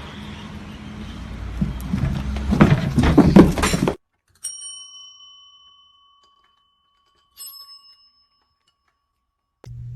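A small bell struck twice, about three seconds apart, each clear ring fading out slowly. Before it, a few seconds of noisy, unsteady sound that ends abruptly.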